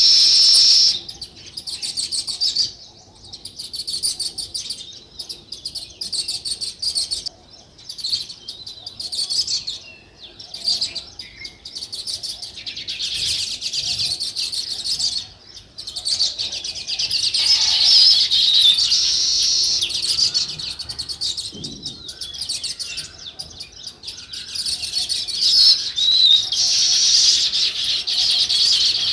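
A flock of small birds chirping together: many quick, overlapping high chirps that swell and ease off in waves, loudest a little past halfway and again near the end.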